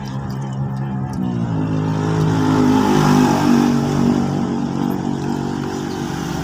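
A motor vehicle engine passing close by, its pitch stepping up twice as it accelerates. It grows louder toward the middle, then eases off.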